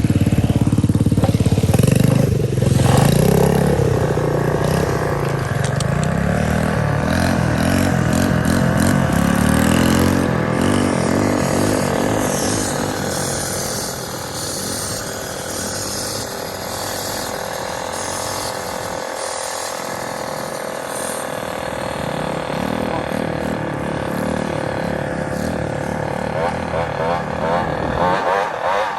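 Small motorbike engine running and being ridden, its pitch rising and falling with the throttle. It is loudest in the first few seconds, then settles to a steadier, slightly quieter note about halfway through.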